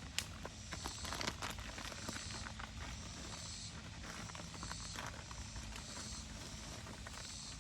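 Insects calling in a steady rhythm of high, pulsing buzzes about once a second. Scattered light clicks and rustles of handling sound over it, the loudest about a second in.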